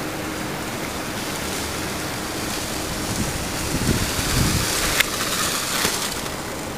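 Steady rushing hiss of wind and rain on the microphone. An electric shopping-cart kart's wheels run on wet pavement, growing louder as it passes close about three to six seconds in, with a sharp click about five seconds in.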